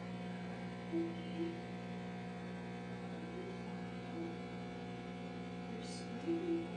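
Steady electrical hum with many even overtones, with a few brief soft low tones over it and a faint click near the end.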